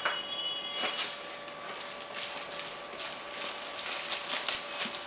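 Irregular rustles and light clicks from foam model-plane tail parts and their packaging being handled, with a brief high squeak at the start, over a faint steady hum.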